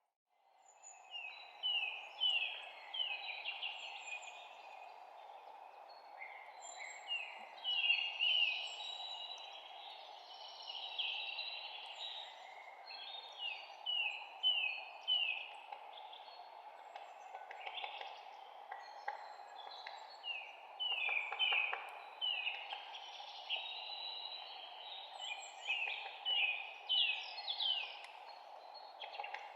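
Songbirds chirping, with many short, quickly repeated notes that slide downward in pitch, scattered through the whole stretch over a steady background rush. The sound fades back in from a brief drop-out at the very start.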